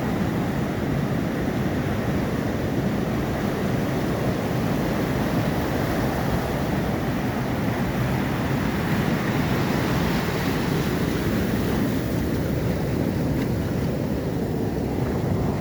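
Steady rushing of Atlantic surf, with wind buffeting the microphone.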